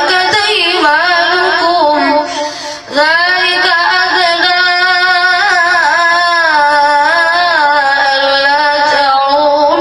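A boy reciting the Quran in a melodic chanted style, drawing out long, wavering notes. He breaks off for a breath a little over two seconds in, then carries on.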